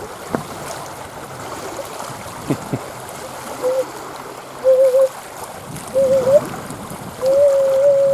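Wind and water noise on a shoreline, with a few sharp clicks early on. From about halfway, a wavering whistle-like tone comes and goes four times, the last one long and the loudest sound present.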